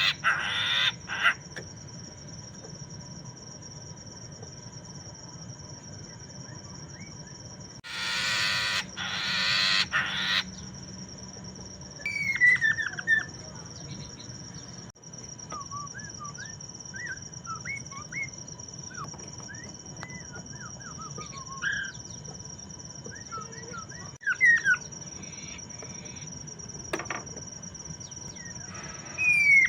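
Poksay Mandarin laughingthrush singing: two loud, harsh, rasping bursts about a third of the way in, then scattered short, quick, downward-sweeping whistled notes that gather into a faster run near the end. A steady thin high tone runs underneath.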